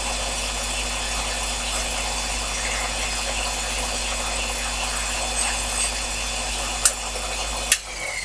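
Sherline mini lathe running steadily under power, with a low hum and a fine rushing noise, as a ragged diameter is cleaned up. Near the end come two sharp clicks and the running noise cuts off as the machine is switched off.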